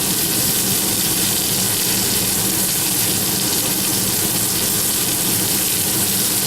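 Chicken cutlets frying in oil and butter in a pan, a steady sizzle.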